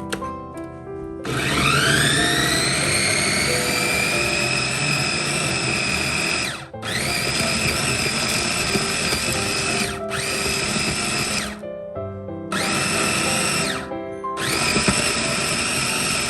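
A small electric motor spins up with a rising whine to a steady high running pitch, then is switched off and on again several times in short runs. Background music plays underneath.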